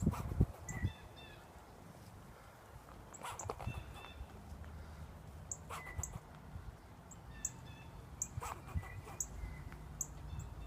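A squirrel barking in short, sharp calls repeated every second or so, an alarm call aimed at a person nearby.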